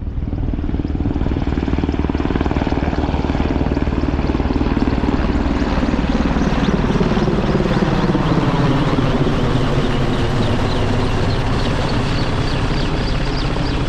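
AgustaWestland AW101 Merlin military helicopter flying low overhead: loud, steady rotor beat and turbine noise, its pitch falling in the second half as it passes.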